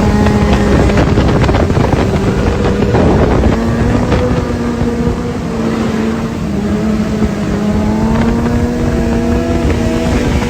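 Motorcycle engine running at a steady pitch under way, with wind buffeting the microphone. The pitch shifts up a little in the last couple of seconds.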